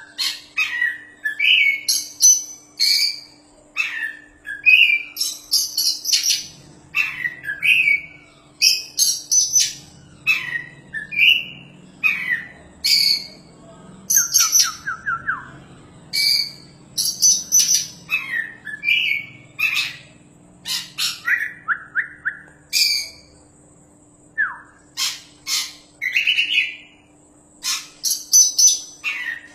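Oriental magpie-robin (kacer) singing hard: a rapid, varied stream of short whistles, chirps and quick trills separated by brief pauses, over a faint steady hum.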